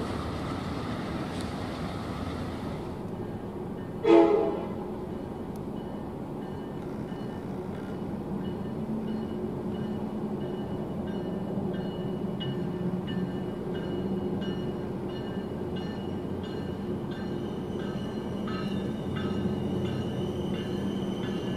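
A diesel-hauled passenger train's noise fades away, then a Tri-Rail commuter train rolls past with a steady engine drone and a high ringing tone from the wheels. Evenly spaced wheel clicks grow stronger toward the end. About four seconds in there is one brief, loud horn toot, the loudest sound here.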